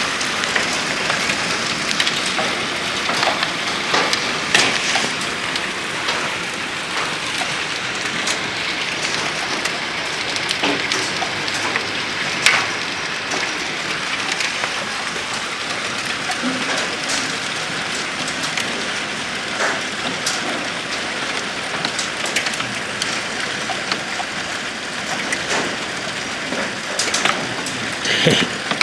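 Penny-sized hail falling with heavy rain: a dense, steady hiss pierced by many sharp clicks of individual hailstones striking, a few louder hits standing out.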